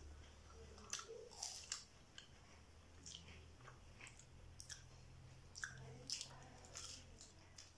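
People chewing and biting into fried bread pakora: faint, scattered short crackles of bites and chewing.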